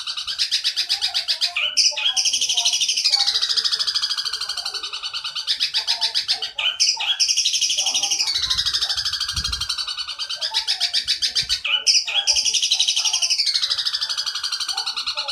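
Recorded song of a 'gereja petir' songbird: a continuous rapid, buzzy trill, high-pitched, that repeats the same phrase about every five seconds, each phrase opening with a sharp chip. This is masteran audio, a looped song played to songbirds to teach it to them.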